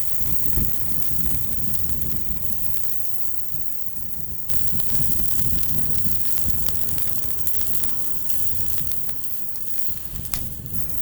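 Fire burning in a small titanium folding firepit grill, with a steady hiss and scattered small crackles; the hiss gets louder about halfway through.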